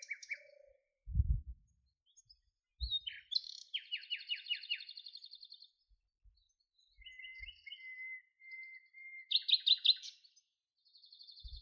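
Birds chirping and trilling: runs of quick falling chirps, buzzy trills and a few short whistled notes, with two low thumps in the first three seconds.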